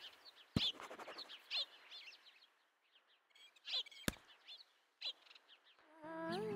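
Small birds chirping: many short, quick chirps scattered through, with two sharp clicks, one about half a second in and one about four seconds in. Music starts near the end.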